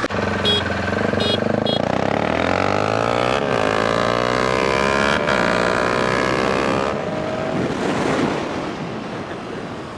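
Dirt bike engine accelerating hard through the gears, its pitch climbing and then dropping at each upshift, about three and a half, five and seven seconds in, then growing quieter near the end.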